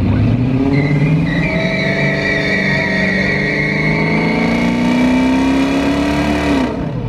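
A vehicle engine held at high revs, its pitch climbing slowly for about six seconds, then falling off sharply near the end as the throttle is released.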